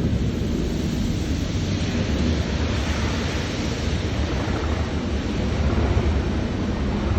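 A Rail Head Treatment Train passing close by: the deep steady rumble of its Class 37 diesel locomotive under a constant rushing noise of wheels and rail. It eases a little mid-way and swells again near the end.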